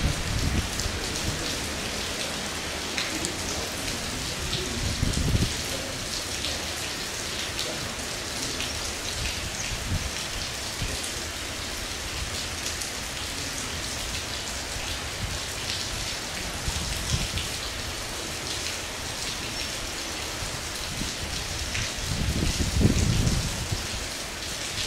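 Heavy rain falling steadily, with dense pattering of drops. A few low rumbles come through, once about five seconds in and again near the end.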